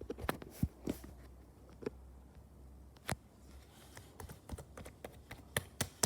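Pink slime being pressed and squished by hand, giving scattered sharp sticky clicks and pops, sparse at first and coming faster and louder near the end.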